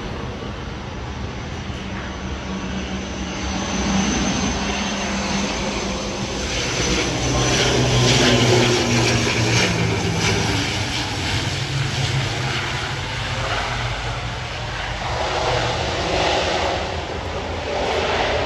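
Aircraft engines running as a plane passes, with a low hum that grows louder to a peak about eight seconds in, then eases and swells again near the end.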